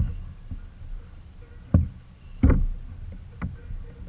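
Four dull knocks on the kayak's hull over a low rumble of handling noise.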